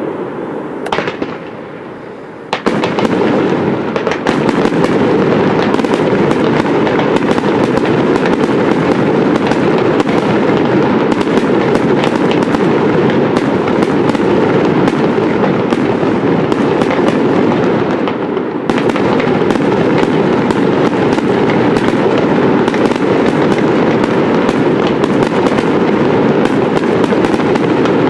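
Aerial fireworks display: a dense, near-continuous barrage of rapid bangs from shell bursts. It starts in earnest about two and a half seconds in, after a quieter opening, and has a brief lull about two-thirds of the way through.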